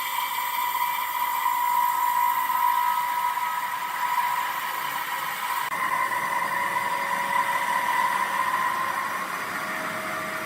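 Woodworking machinery running with a steady high whine over a hissing noise, which shifts abruptly a little over halfway through.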